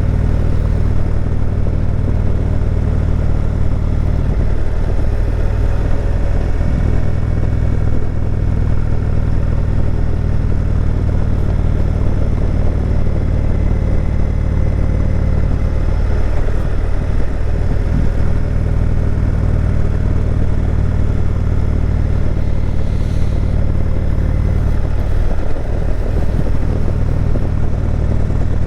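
Indian cruiser motorcycle's V-twin engine running steadily as it rides, heard from the bike itself, with the engine note dropping briefly three times as the throttle eases.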